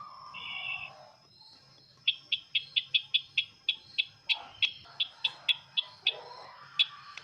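Sisintar ladang bird calling: a short buzzy call, then a rapid series of about fifteen sharp, high notes at roughly four a second, and a single note near the end.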